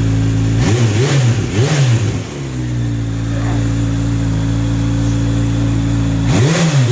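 Kawasaki H2 SX's supercharged inline-four idling steadily, blipped twice in quick succession about a second in and twice more near the end, each rev rising and dropping back quickly.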